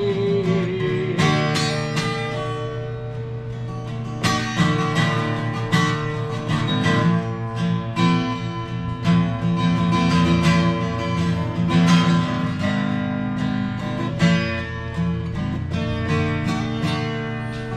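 Acoustic guitar strumming chords in a steady rhythm: an instrumental break between sung verses.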